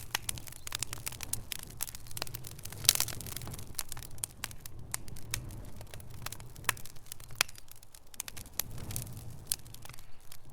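Wood fire burning in a fireplace, crackling and popping irregularly over a low rumble, with a sharper run of pops about three seconds in.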